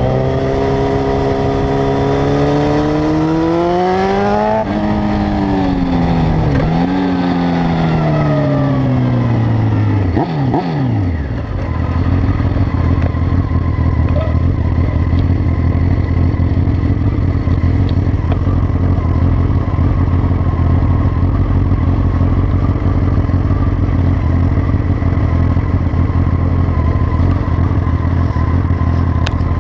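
Honda CB900F inline-four engine and exhaust pulling hard, its note rising, then dropping about four and a half seconds in as it changes gear and climbing again. From about seven seconds the note falls away for a few seconds, and from about twelve seconds in the engine settles to a steady low idle.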